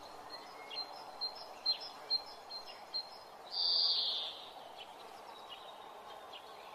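Birds chirping outdoors: a string of short high chirps, then a louder, high buzzy call about a second long, over a faint steady background hiss.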